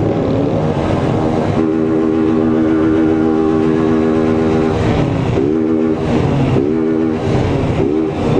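Motorcycle engine held at high revs for a few seconds, then revved in a run of quick throttle blips, each a rising whine about every half second.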